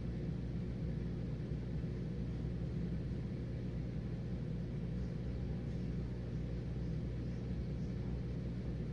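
Whirlpool dishwasher running its normal wash cycle: a steady low hum from the wash pump motor, with a fainter wash of water spraying inside the tub.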